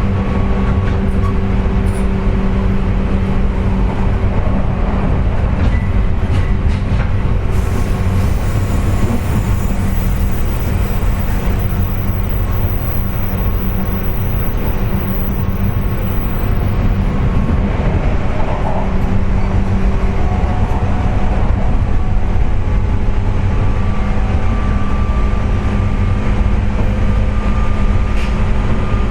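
JR West 201 series electric train running at speed, heard inside the motor car: steady rumble of wheels on rail with a loud, steady whining drone, the "jet sound" caused by electrical erosion (電蝕) of the traction motor bearings.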